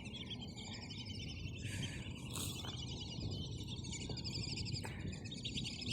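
Birds chirping and trilling, many rapid high calls overlapping, over a low steady outdoor background.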